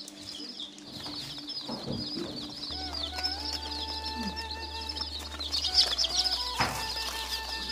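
Many small birds chirping continuously in a high-pitched chorus, over a steady low hum.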